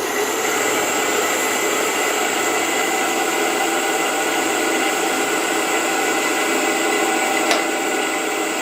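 Wood lathe running steadily with fine 1200-grit sandpaper held against the spinning wooden lid, a constant hiss with a high motor whine. A single brief click comes near the end.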